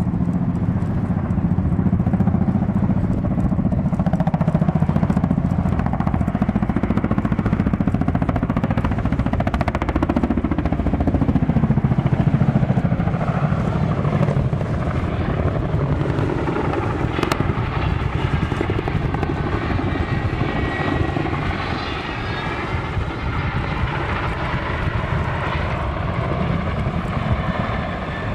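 Aircraft engine noise from a plane in a flying display: a steady rumble, with a pitched engine tone that rises and falls in the second half.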